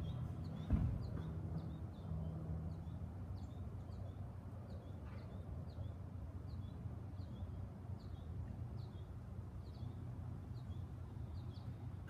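A small bird chirping over and over, short falling chirps about two a second, over a steady low outdoor rumble, with one dull bump about a second in.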